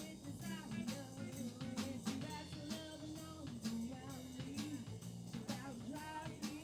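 Live band playing a rock-style number with drum kit, guitar and a melody line, the drums keeping a steady beat of about two hits a second.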